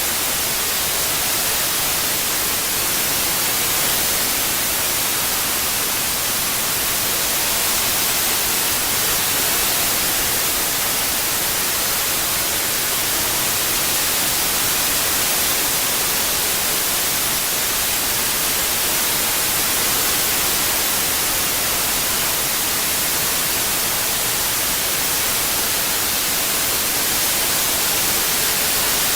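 Steady synthetic white noise, an even hiss strongest in the high frequencies, with no tones or events. It is 8D-processed for headphones, with a faint slow swell in level.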